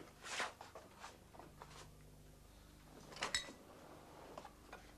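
Faint clatter of tableware at a dinner table, with one sharp ringing clink of crockery a little after three seconds in, over a low steady hum.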